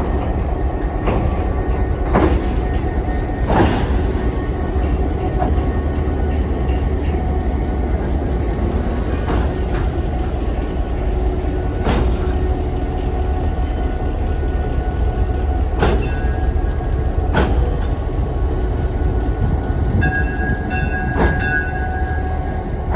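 Diesel-hydraulic shunting locomotive DHL 108 running with a steady low engine rumble. Sharp knocks come at irregular intervals, like wheels passing over rail joints and points, and a brief high-pitched tone sounds near the end.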